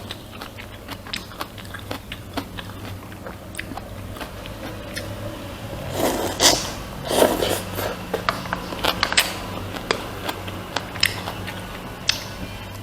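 A person eating rice with pork soup close to the microphone: wet chewing and biting with many small clicks, and a few louder mouthfuls about halfway through.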